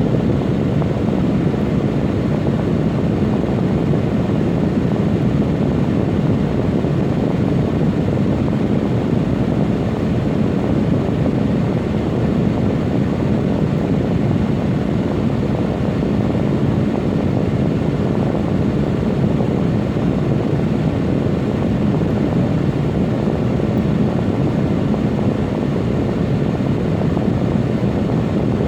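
Air conditioner and heat unit running, with its compressor and blower fan giving a loud, steady, unbroken low hum.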